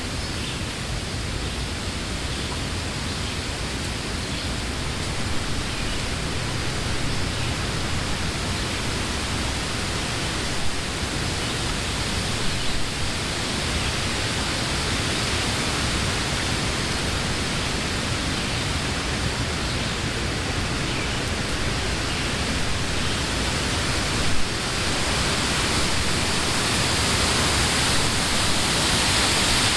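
Wind blowing through trees, a steady rushing of leaves that gradually strengthens toward the end, with a few brief louder gusts.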